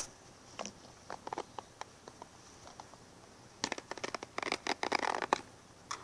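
Close-up scratching and clicking sounds: scattered soft ticks, then a denser run of rapid crackling clicks from a little before four seconds in to about five and a half seconds.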